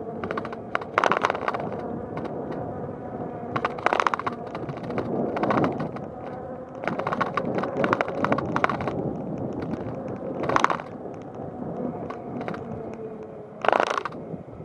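Bicycle rolling along a paved path: a steady hum under road noise, broken about six times by short bursts of clicking and rattling from the bike, the loudest near the end.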